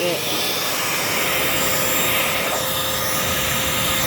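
Vacmaster 2.5-gallon 2 hp shop vacuum running steadily, with a steady whine from the motor. Its hose is fitted to the exhaust port, so it is blowing air out rather than sucking.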